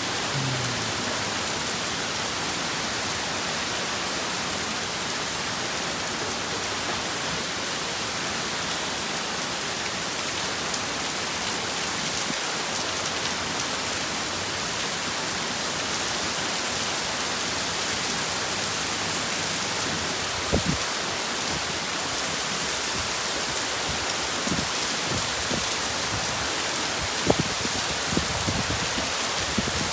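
Heavy storm rain and wind make a steady, even rush of noise, with a few sharp knocks in the second half.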